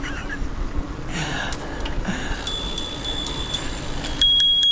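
Bicycle bell rung in quick strikes, a bright ringing tone. It comes in two bursts, about two and a half seconds in and again louder near the end, over street noise.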